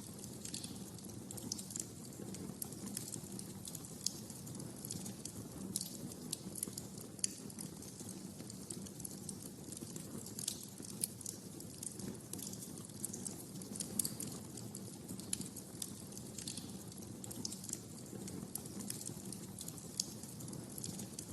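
Wood fire in a fireplace crackling, with irregular sharp snaps and pops over a steady low rumble of the flames.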